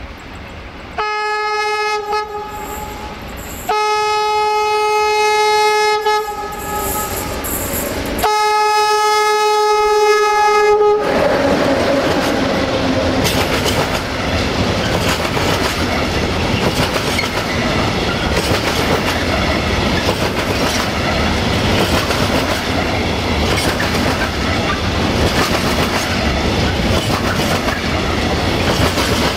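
Romanian freight train's locomotive horn sounding three long single-note blasts of about two and a half seconds each, then the train of covered wagons running past close by: a steady rumble and the clickety-clack of wheels over rail joints.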